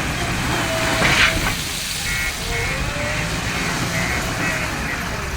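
Backhoe loader's diesel engine running steadily, with a short loud hiss about a second in, then a row of short high beeps, about two a second.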